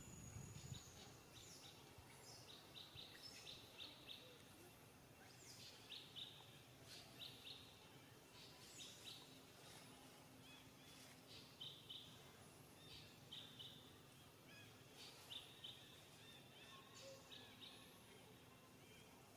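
Faint bird chirping: short quick series of high notes, repeating every second or two, with a few higher upward-sweeping calls.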